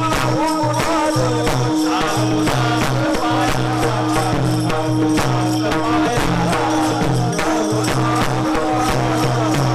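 Marathi devotional kirtan music: sustained held tones under a bending melody, with a fast, steady beat of jingling metallic percussion.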